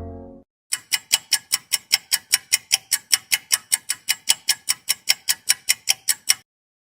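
Clock ticking sound effect: fast, even ticks, about five a second, that stop abruptly near the end. A low horn blast fades out at the very start.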